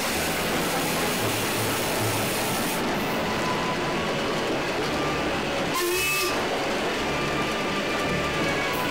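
Steam locomotive and train running on the line, a steady dense rumble, with a short burst of hiss about six seconds in.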